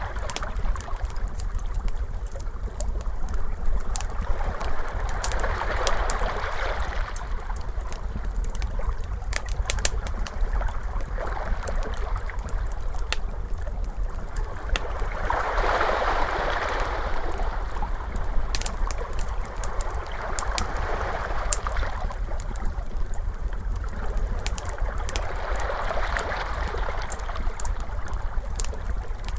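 Wood fire crackling with many sharp pops, mixed with ocean waves that swell and wash in about four times, over a steady low rumble.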